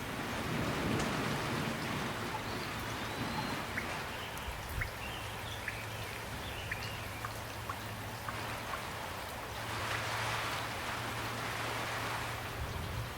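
Steady, gentle rain falling, with individual drops landing close by as sharp little drips. A few faint high chirps come through around the middle.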